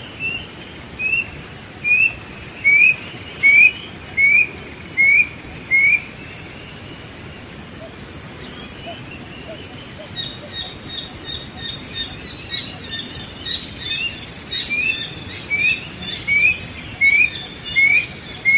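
Wild bird calling a series of short rising whistled notes, a bit more than one a second, in two runs: one in the first six seconds and one from about fourteen seconds on. Between the runs, another bird gives a quicker string of higher chips, over a steady high insect drone.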